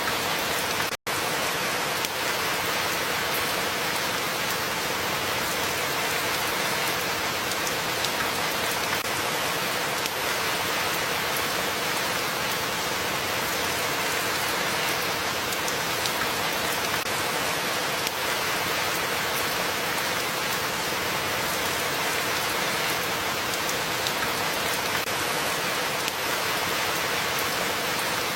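Steady rain falling, with faint scattered drop ticks. The sound cuts out for an instant about a second in, then carries on unchanged.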